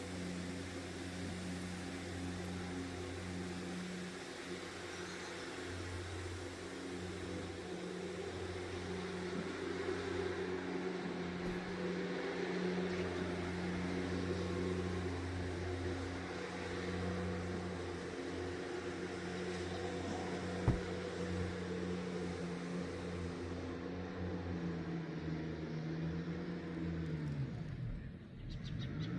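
A motor vehicle's engine running steadily with an even hum, its pitch sagging near the end, with one sharp click about two-thirds of the way through.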